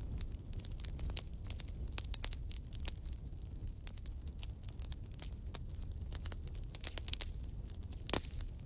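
Wood campfire crackling: frequent sharp pops and snaps over a low steady rumble, with one louder pop near the end.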